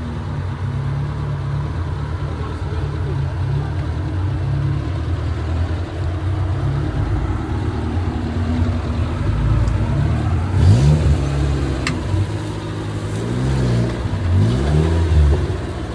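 Off-road 4x4 vehicle's engine running and revving up and down several times in the second half.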